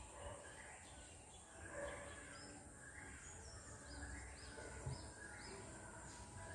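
Faint birds chirping: many short chirps throughout, with a run of quick high arched notes in the middle, over a low steady background noise.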